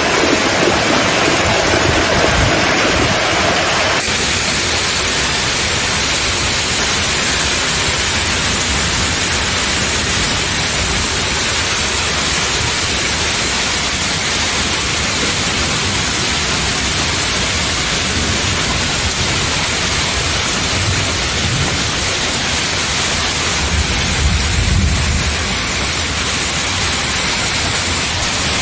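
Heavy hailstorm with rain, a dense, steady hiss of hail and water pouring down. The sound changes abruptly about four seconds in, and a low rumble comes near the end.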